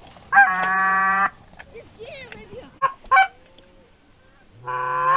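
Goose honking: a long, steady honk about a second long near the start and another near the end, with short, clipped honks in between.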